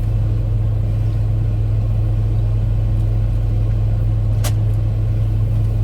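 Car engine running with a steady low hum, and a single sharp click about four and a half seconds in.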